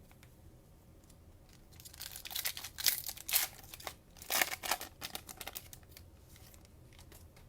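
Cellophane wrapper of a trading card pack being torn open and crinkled, a string of scratchy crackles about two seconds in that stops a few seconds later.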